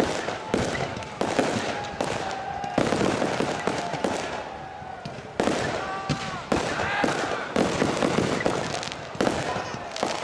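Large fireworks display: aerial shells bursting in a dense run of sharp bangs, a fresh burst every second or two, with crackling in between.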